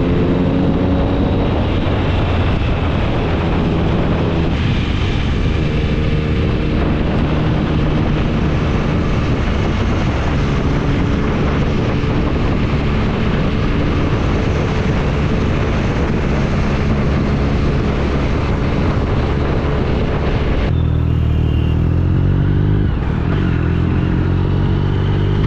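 Triumph Speed Triple 1050's inline three-cylinder engine through an SC Project exhaust, with the bike under way and wind rush on the microphone. The engine note climbs in pitch again and again as it pulls through the gears. Near the end the wind noise falls away and the engine revs up twice more.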